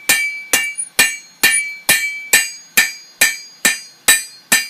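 Hand hammer striking hot O1 tool steel on an anvil in a steady rhythm of about two blows a second, each blow with a short metallic ring. The smith is flattening out the end of a flint striker.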